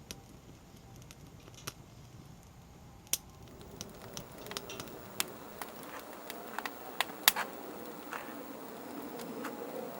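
Conifer firewood burning with irregular sharp pops and crackles over a soft rushing noise. The pops grow more frequent and louder from about halfway through.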